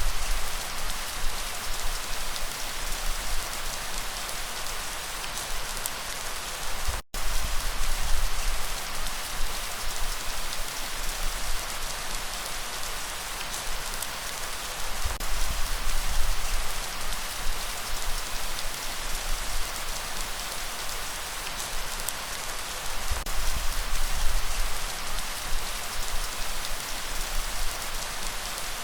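Steady light rain falling, an even hiss of drops, with a low rumble of breeze that swells and fades. The sound cuts out for an instant about seven seconds in.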